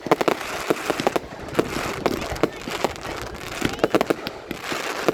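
Fireworks display going off: a rapid, irregular string of sharp bangs and cracks overlapping one another, over a steady crackling hiss.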